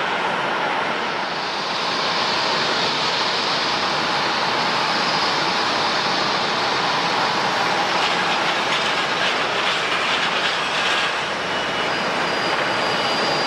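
Jet airliner engines running with a steady rush, a high whine coming in over it near the end.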